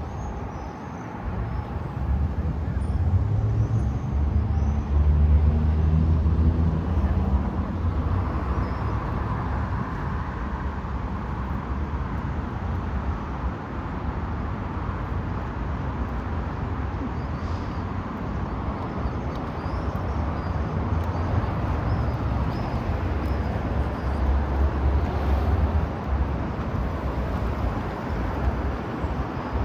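Road traffic rumbling steadily nearby, with vehicles passing and swelling louder in the first few seconds and again near the end.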